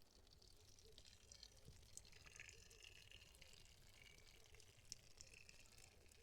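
Near silence: faint background hum with a few soft scattered ticks.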